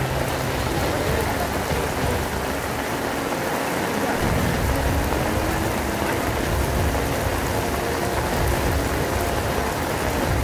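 Heavy rain falling steadily, with faint voices in the background.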